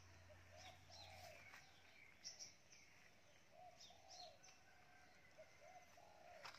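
Faint birdsong: soft, repeated cooing calls of a dove, coming in several short groups, with a few small birds chirping high above it.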